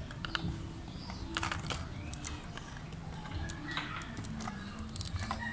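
Packaging of new bicycle disc brake pads being pried and torn open by hand, giving a run of irregular small clicks and crackles.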